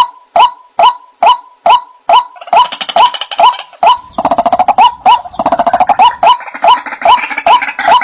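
White-breasted waterhen (ruak-ruak) calling, a short hooked note repeated about twice a second. About two seconds in, a faster chattering call overlaps it, thickening into a busy chorus.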